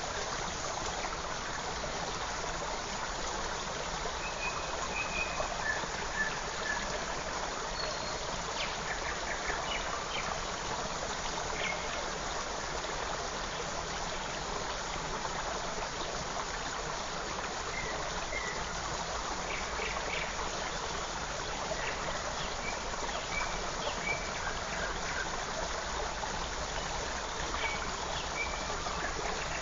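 Forest creek flowing steadily, a constant rushing water sound, with short high bird chirps and whistles scattered over it every few seconds.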